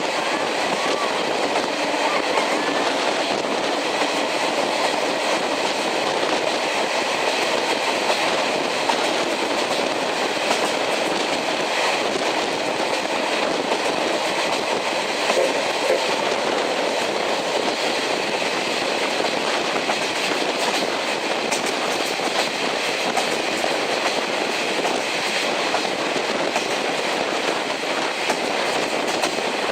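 Passenger coach of a steam-hauled train running steadily along the line: wheels rolling on the rails with a light clickety-clack over the rail joints, heard from inside the coach.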